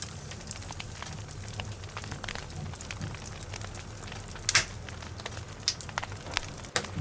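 Wood logs burning in a fireplace, crackling with many small scattered pops and a few louder ones, over a low steady rumble.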